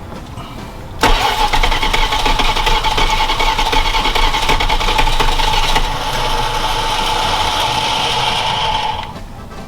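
A truck's freshly reassembled carbureted engine cranking over on its starter, hot-wired to the battery, on a first start attempt with fuel poured into the carburetor. It starts suddenly about a second in, runs steadily with a whine, drops slightly in level about six seconds in and stops about nine seconds in.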